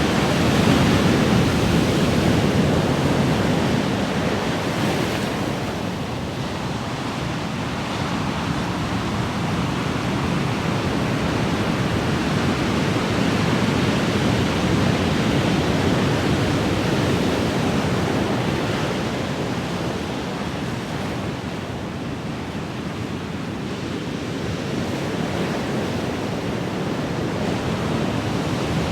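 Ocean waves breaking and washing on a shore in a steady rush, swelling and easing slowly every ten seconds or so.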